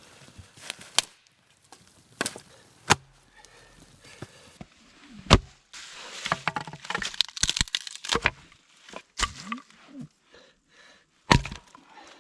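Dry sticks and branches snapping and knocking, in irregular sharp cracks, with a longer stretch of busy crackling and rustling in the middle.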